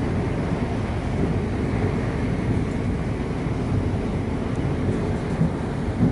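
Electric suburban train running on the line, heard from inside the carriage as a steady low rumble of wheels on track.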